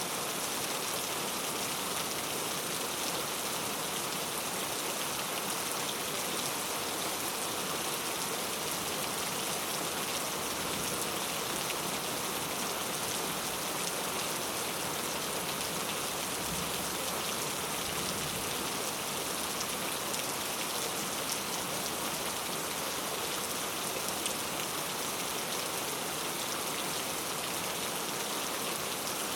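Steady rainfall: an even hiss of rain with many fine drops pattering on a surface.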